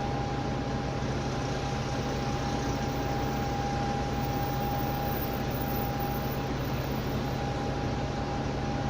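Steady cabin noise on the lower deck of a Dennis Trident double-decker bus: its Cummins ISMe diesel engine running with an even hum and a constant thin whine over it.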